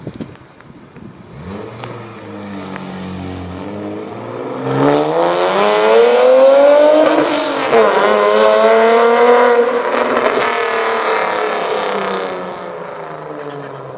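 BMW E46 coupe's straight-six engine, straight-piped with a catless header, accelerating hard past. The pitch climbs, dips sharply at a gear change about eight seconds in, climbs again, then falls and fades as the car moves away.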